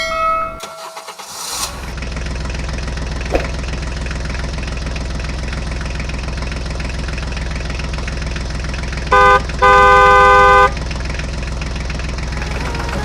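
Tractor engine starting up and then running with a steady low drone. A horn honks twice: a short toot about nine seconds in, then a longer, louder blast a moment later.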